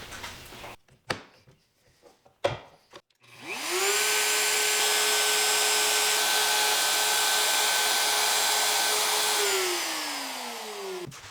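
A few light wooden knocks, then a high-speed electric power tool switches on about three seconds in. It runs at one steady pitch for about six seconds with no sign of cutting load, then is switched off and winds down, falling in pitch until it stops near the end.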